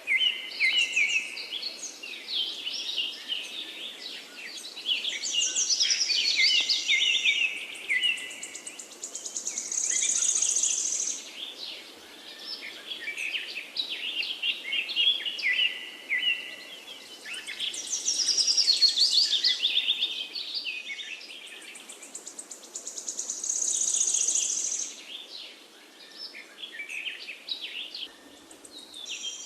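Several songbirds singing at once in overlapping, repeated phrases, with fast high trills and chirps coming in waves, over a faint steady background hiss.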